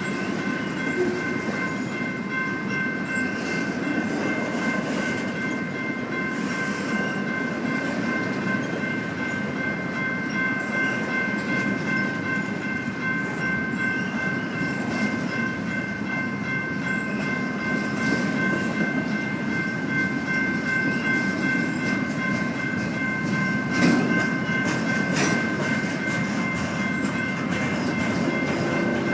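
A train rolling past on the rails with a steady rumble and wheel clatter. Several steady high ringing tones run through it, and there is a sharp clank about 24 seconds in.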